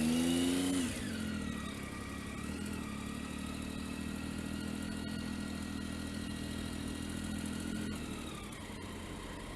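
Motorcycle engine revving briefly, then running at a steady note that drops in pitch near the end.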